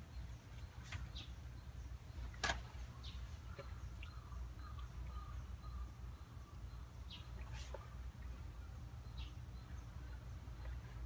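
Small birds chirping in short single calls every couple of seconds over a low steady rumble, with one sharp click about two and a half seconds in.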